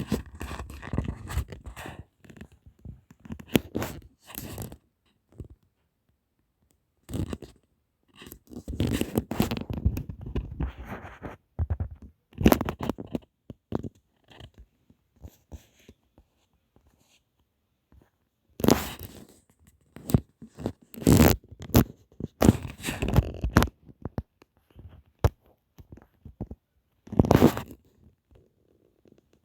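Irregular bursts of scratching and rustling handling noise, with short silent gaps between them.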